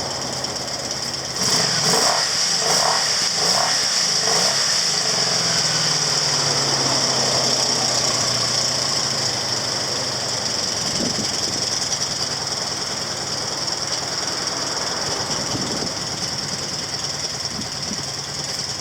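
Honda VF750 V4 motorcycle engine running. It picks up sharply about a second and a half in, gives a few quick revs, then settles into a steady idle.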